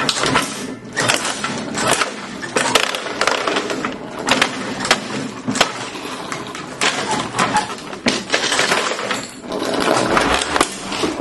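A plastic toy being broken up by a lawnmower: a dense, irregular run of sharp cracks and clatters.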